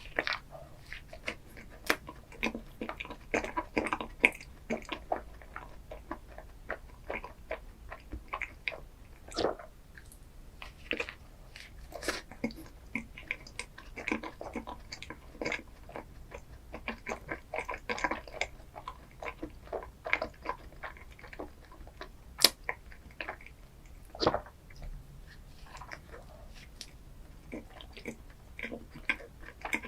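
Close-miked chewing and biting of chocolate ice cream desserts: moist mouth sounds with short, sharp crackles and snaps scattered all through.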